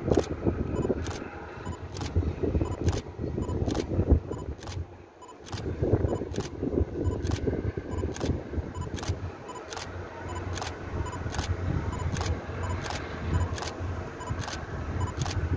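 Sharp, regular clicks, about two a second, over a steady low outdoor rumble.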